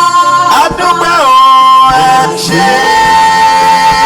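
Worship singing of a Yoruba praise song of thanks, one voice drawing out long held notes, sliding down between them about a second in and then holding a long steady note.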